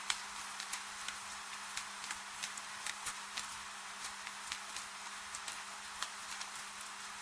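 Gentle rain: a steady hiss with many irregular drips and patters, over a faint steady low hum.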